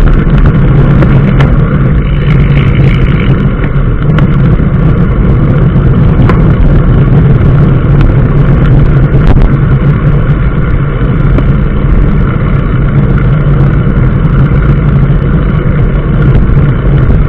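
Steady, loud engine and road noise of a moving vehicle, a constant low rumble with a few faint clicks.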